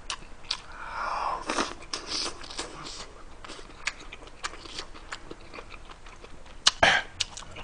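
Close-miked chewing of a mouthful of fried ham and egg, with wet mouth clicks and lip smacks, and one louder smack near the end.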